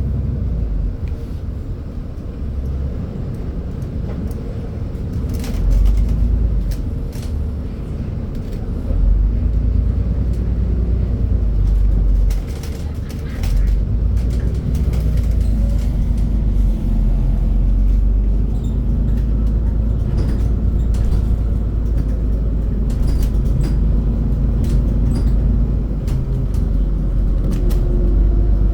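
Scania CN280UB Citywide city bus on the move: a continuous low engine and road rumble that swells and eases as it drives, with scattered clicks and rattles. The rumble drops briefly about twelve seconds in, then picks up again.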